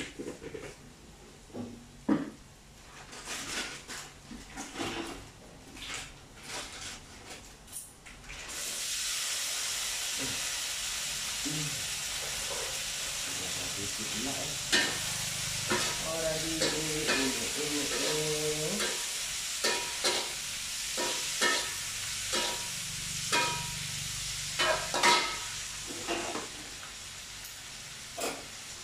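Hot oil sizzling in a frying pan. The sizzle starts suddenly about eight seconds in, as food goes into the oil, and then holds steady. Knocks and scrapes of a utensil against the pan come throughout.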